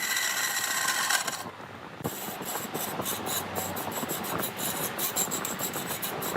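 Lathe cutting tool scraping against a spinning redwood log. It starts as a steady whine, drops off briefly at about a second and a half, then turns into rough, irregular scraping with rapid chatter.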